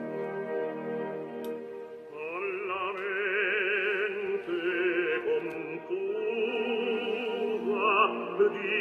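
Classical-style song: held orchestral chords, then about two seconds in a singer enters with an operatic voice and wide vibrato over the accompaniment.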